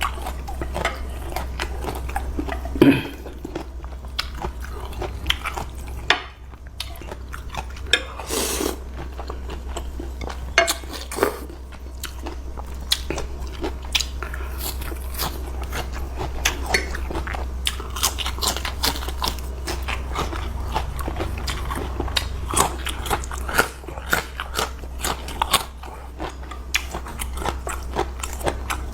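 Close-up chewing and crunching of curry noodles and firmer bits of food, a dense run of small crunches and mouth clicks, with a louder knock about three seconds in. A steady low hum runs underneath.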